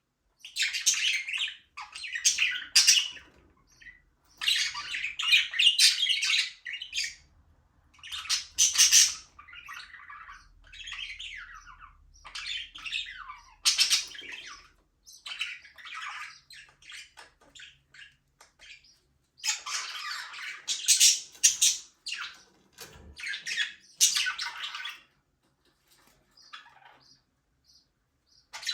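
Budgerigars chirping and chattering in irregular bursts of a second or two, with short squawks and brief pauses between.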